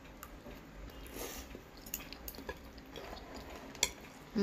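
A person chewing a mouthful of food quietly, with a few light clicks of plastic chopsticks against a ceramic plate, the loudest just before the end.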